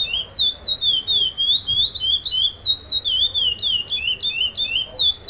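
Chestnut-bellied seed finch (curió) singing a continuous run of clear whistled notes, each sliding down or up in pitch, about three or four a second, repeating its phrase without a break.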